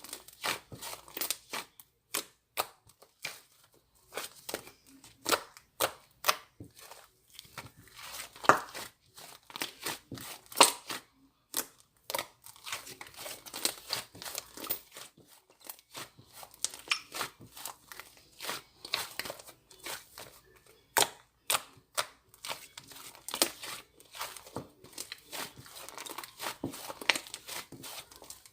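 Crinkly wrapping being handled and torn, a dense run of irregular sharp crackles and clicks.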